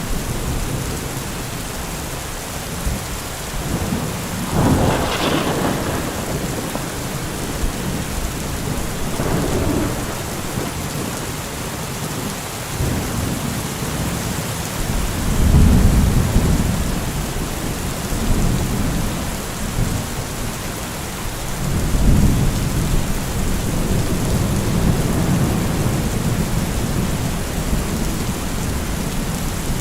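Heavy rain falling steadily. Low rumbles swell and fade a few seconds in, about halfway through and again about two-thirds through, the one near the middle the loudest.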